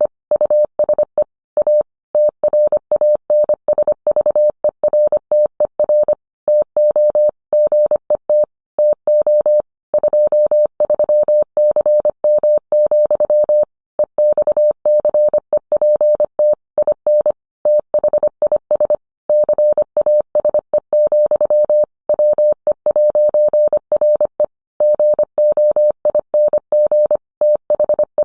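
Morse code sent as a single mid-pitched beep tone, keyed quickly into short and long elements, with brief pauses between words.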